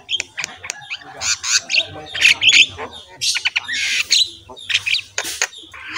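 Birds calling: a busy, irregular run of short harsh calls and thin chirps, many in quick succession.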